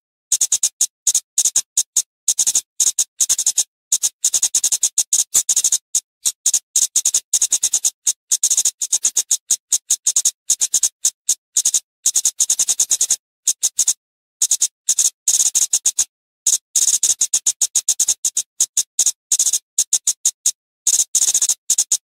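Flowerpecker calling: a rapid, continuous string of short, sharp, high-pitched ticking notes, broken only by a few brief pauses.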